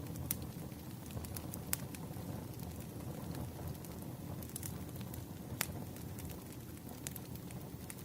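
Burning firewood crackling: a steady low rumble of the fire with sharp pops scattered irregularly through it, the loudest about 1.7 and 5.6 seconds in.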